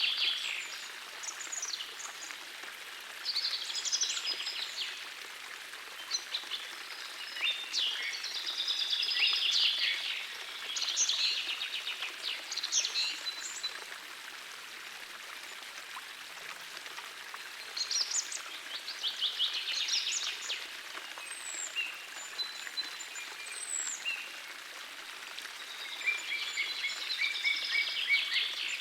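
Songbirds singing in short bursts of rapid chirps and trills every few seconds, over the steady rush of a gentle forest stream.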